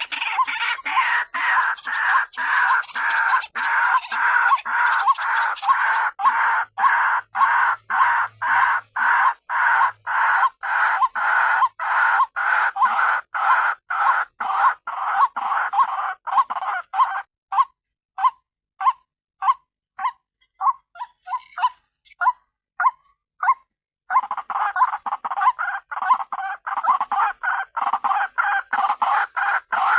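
Female white-breasted waterhen (ruak-ruak) calling, a lure call: a fast, rhythmic run of harsh repeated notes, about three a second. Partway through it thins to separate single notes with short gaps, then picks up again into a dense run near the end.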